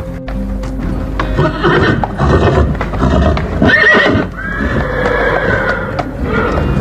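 An animal calling in several drawn-out, whinny-like cries, one rising to a squeal about four seconds in, over a run of sharp taps.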